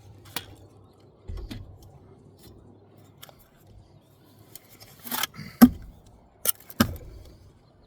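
Bricklaying work with a trowel, mortar and brick: a few short scrapes and several sharp clicks, the loudest a little past halfway and another about a second later.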